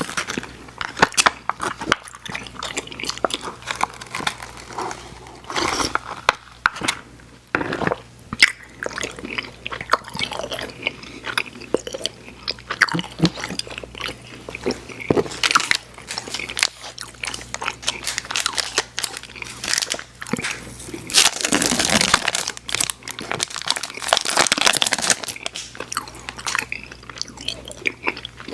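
Close-miked chewing of Airheads Xtremes sour chewy candy: a steady run of sharp mouth clicks and chews, growing louder and denser for a few seconds about three quarters of the way through.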